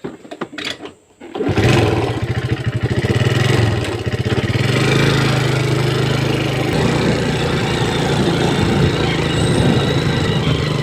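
A few clicks, then a vehicle engine starts about a second and a half in, revs briefly and settles into steady running.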